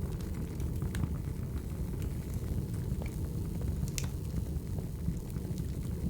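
Wood fire burning: a steady low rush with scattered sharp crackles and pops, the loudest about four seconds in.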